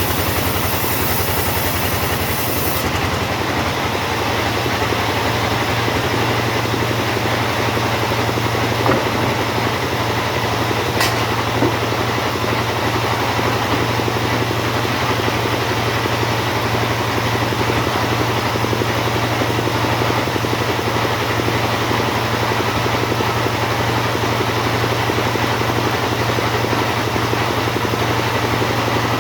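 Two-stroke chainsaw running steadily at an even pitch while sawing teak timber.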